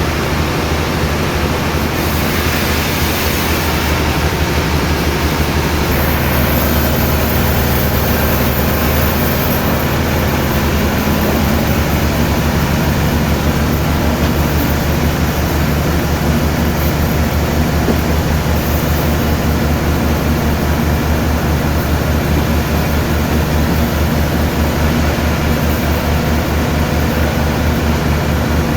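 Sawmill machinery running steadily: a loud, continuous mechanical drone with a deep hum.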